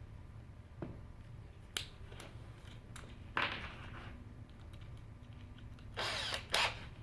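Woodworking on a wooden birdhouse: scattered knocks and clicks of tools and wood being handled, with a short scraping burst about three and a half seconds in and a longer one near the end, over a low steady hum.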